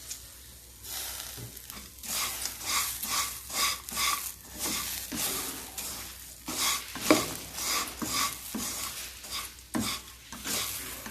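Spatula stirring and scraping poha chivda around a metal kadai on the stove, in quick regular strokes starting about a second in, as the lemon juice is mixed through the finished mixture.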